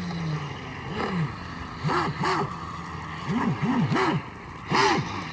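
Homemade RC boat's motor revved up and back down in short blips, about seven times, each a quick rise and fall in pitch. It runs with an abnormal sound from a broken propeller-shaft cross joint (universal joint), which the builders confirm is the joint.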